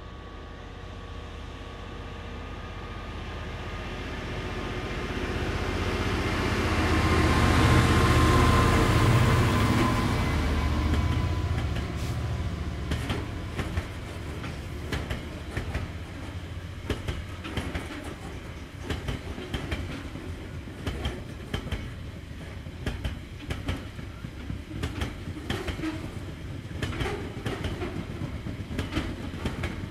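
A Class 66 diesel locomotive, its two-stroke V12 engine working, grows louder as it approaches and passes, loudest about eight to ten seconds in. Then a long train of gypsum box wagons rolls by with a clickety-clack of wheels over the track.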